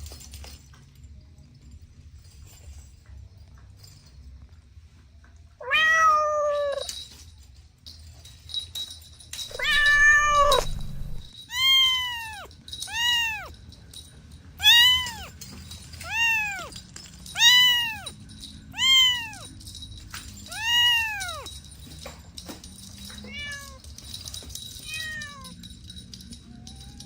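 Kitten meowing, high-pitched: two drawn-out meows, then a quick run of about eight short meows, each rising and falling, roughly one a second, ending with two fainter ones.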